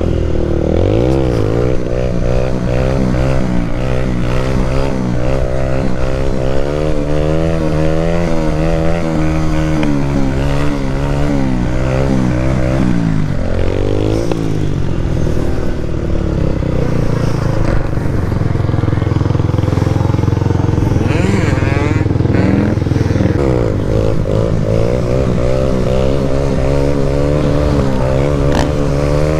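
Motorcycle engine running without a break, its revs holding steady, then rising and falling several times, with a rougher, noisier stretch a little past the middle.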